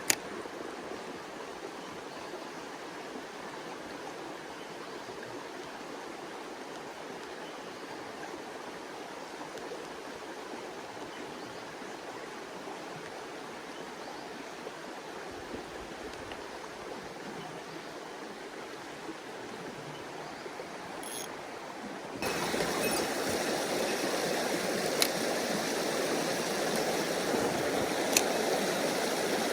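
Mountain stream rushing over rocks, a steady hiss of flowing water. About two-thirds of the way through it cuts abruptly to a louder, fuller rush, as if closer to the rapids, with a sharp click at the very start and a few faint ticks later.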